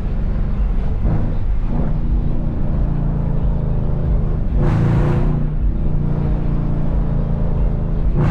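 Car engine running while driving, a steady low drone that surges briefly about a second in, again about five seconds in, and at the end.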